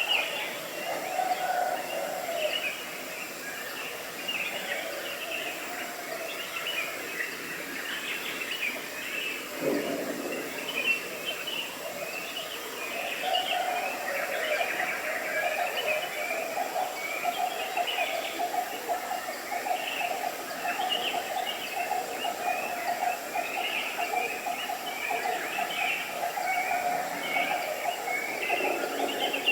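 Several birds chirping and twittering without pause, over a steady mid-pitched hum that grows stronger about halfway through.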